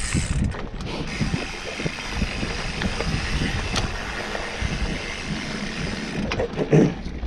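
Mountain bike riding over a dirt trail: steady rumble of tyres and wind on the bike-mounted microphone, with the frame and parts rattling and clicking, and a heavier thump near the end.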